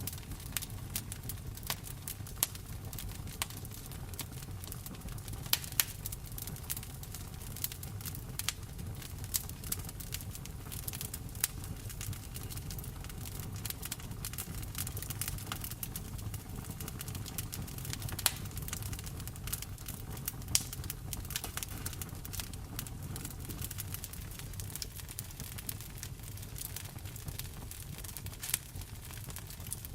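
Wood fire in a fireplace crackling, with irregular sharp pops, a few of them much louder, over a steady low rumble.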